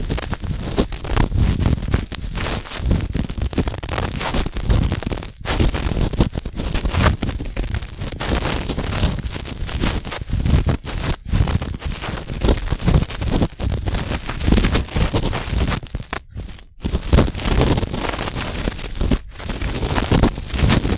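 Cotton swab rubbing and scraping inside the ear of a binaural microphone, a close, continuous scratchy rustle that breaks off briefly a few times as the swab is lifted and moved.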